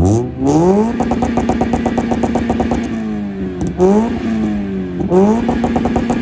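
Mazda Miata's four-cylinder engine revving up and holding on its two-step launch rev limiter, the held note chopped into a rapid crackle. It falls off and is brought back up onto the limiter twice.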